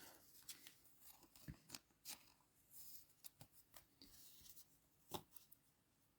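Faint rustling and scattered small clicks of trading cards being handled, with a few sharper taps about a second and a half, two seconds and five seconds in.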